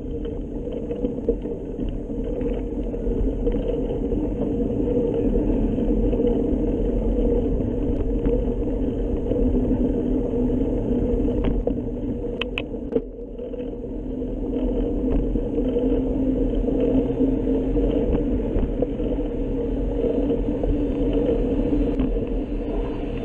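Steady rumble of a car driving, with a brief dip about 13 seconds in.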